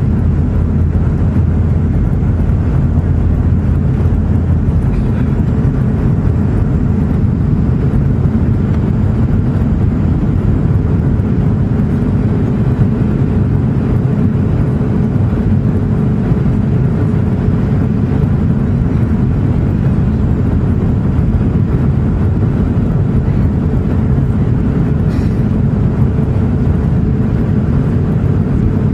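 Steady engine and airflow noise heard inside the cabin of a Boeing 757-200 airliner. A faint steady hum joins about ten seconds in.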